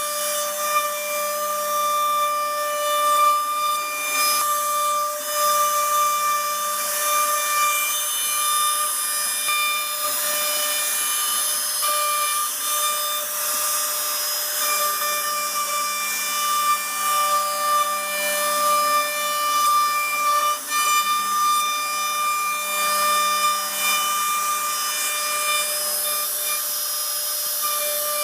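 CNC router spindle whining steadily while its bit cuts into wood, with a hiss of cutting noise that rises and falls slightly as the tool moves.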